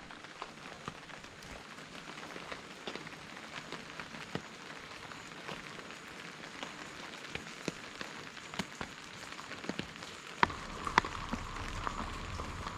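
Rain falling, with single drops ticking sharply on a surface. About ten seconds in, the sound becomes fuller, with a lower rush and louder, sharper drop hits.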